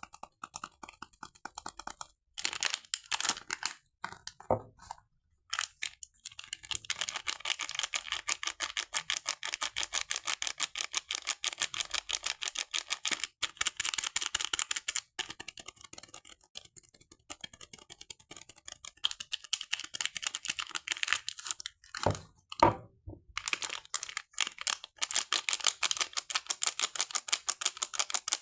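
Close-up unwrapping and handling of a bar of soap in its packaging: a fast, dense run of crisp clicks and crinkles, broken by a few short pauses, with a couple of louder knocks a little past the middle.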